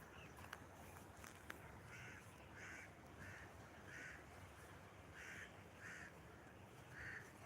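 Faint, repeated harsh bird calls: about seven short calls, spaced roughly half a second to a second apart.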